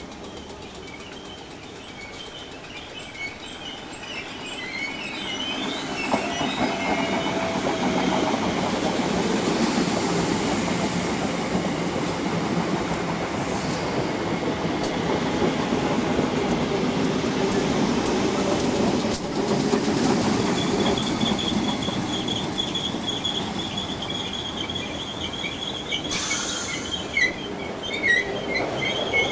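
Electric multiple-unit passenger train approaching and running past close by on curved track, its steady rumble of wheels on rail growing louder about four to six seconds in. High-pitched wheel squeal from the curve chirps as it nears and is held through the last third.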